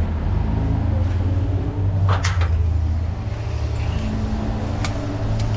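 Large diesel truck engine running steadily at idle, with a few sharp knocks, about two seconds in and twice near the end.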